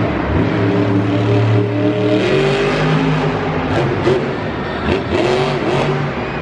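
Monster truck engines running loud, the pitch rising and falling as the drivers rev.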